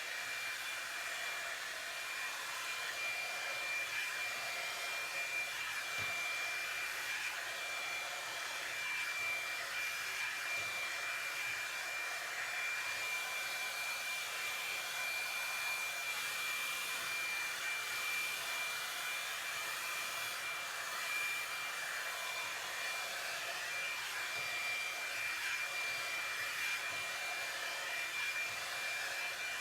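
Revlon One-Step paddle-brush hair dryer running steadily: a rush of blown air with a steady high motor whine.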